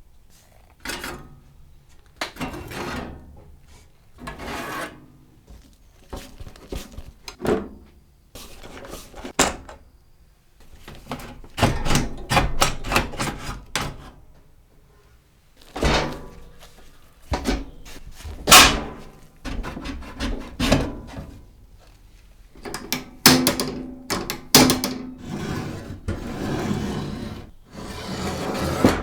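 Irregular workshop handling noise: knocks, thunks and rubbing or scraping of wooden parts, in uneven bursts with short pauses, likely the old wooden arcade cabinet and its parts being worked on.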